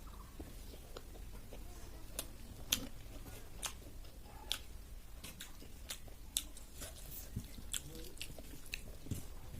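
Close-up mukbang eating sounds of a person eating snail curry: chewing and biting, with irregular sharp clicks and smacks.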